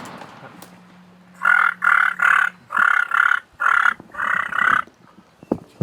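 Wild turkey gobbling, a run of rattling gobbles starting about a second and a half in. At the very start the echo of a shotgun blast is fading out.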